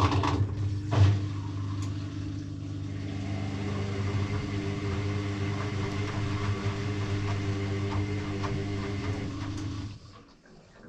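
Electrolux EW6S404WU washing machine motor starting with a click and running with a steady, even-pitched hum and a knock about a second in, then stopping abruptly after about ten seconds.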